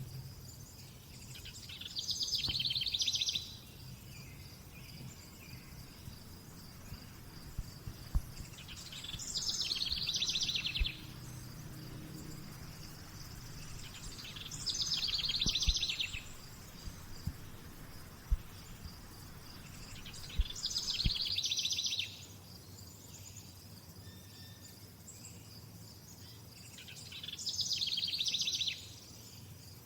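A songbird repeating a fast trilled song, each phrase about a second and a half long, five times at roughly six-second intervals. Under it runs a steady high-pitched insect trill.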